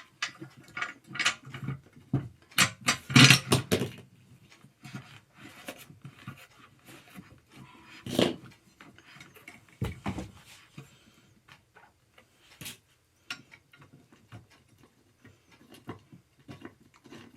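Scattered clicks, knocks and rattles of gaming chair parts and screws being handled and fitted during assembly, with the loudest flurry about three seconds in and a couple of single thumps later.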